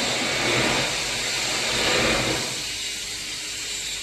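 Student-built rocket engine on a hot-fire test, burning with a loud, steady hiss that drops away about two and a half seconds in, leaving a thinner high hiss.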